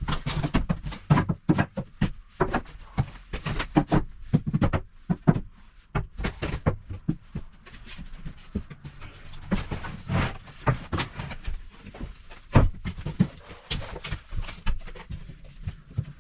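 Irregular knocks, taps and bumps of tongue-and-groove chipboard loft boards being handled and laid on a timber frame.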